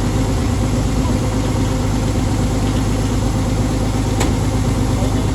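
A machine's engine running steadily at a constant speed, with one short sharp click about four seconds in.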